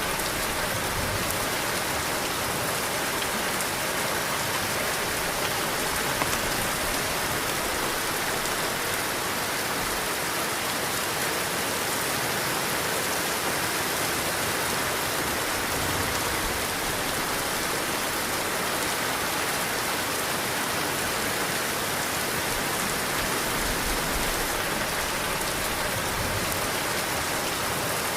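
Heavy rain pouring steadily: a dense, even hiss of rainfall.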